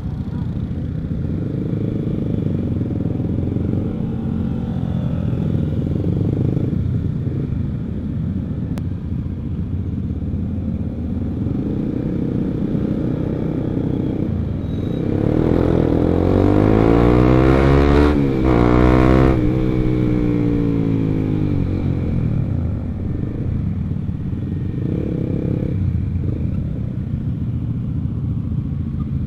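Motorcycle engine running at road speed, identified by the material as a Honda CBR150R with an R9 aftermarket exhaust. About halfway through, the engine note gets louder and rises in pitch for a few seconds, then falls back.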